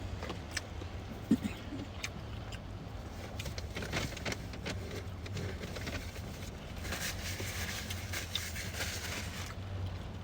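Eating and food-handling sounds: scattered clicks and crunches while chewing, with a longer rustle from about seven to nine and a half seconds in, over a steady low hum.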